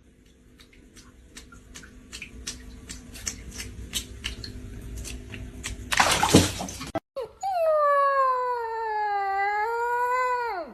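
A dog howling: one long call over the last three and a half seconds, its pitch sliding down, then rising and falling off at the end. Before it come faint scattered clicks and a short loud noisy burst.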